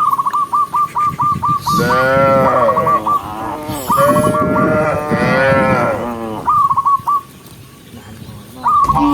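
Cattle mooing in long, overlapping calls that rise and fall in pitch, in two main stretches with a pause between. The calls are mixed with a quick run of short, high, repeated calls at the start and between the moos.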